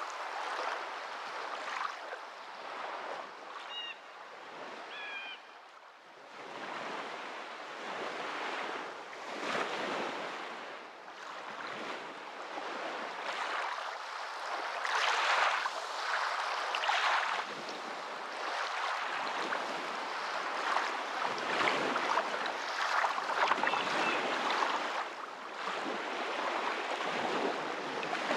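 Waves washing onto a shore, a rushing hiss that swells and ebbs every few seconds. A few short, high chirps sound briefly about four and five seconds in.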